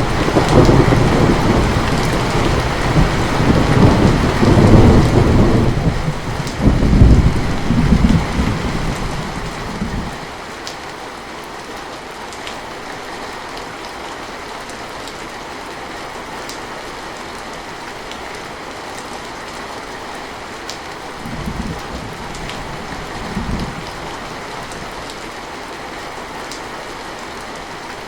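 Heavy rain falling steadily, with a long roll of thunder that rumbles loudly through the first ten seconds and swells twice before dying away. Two short, fainter rumbles of distant thunder come past the two-thirds mark.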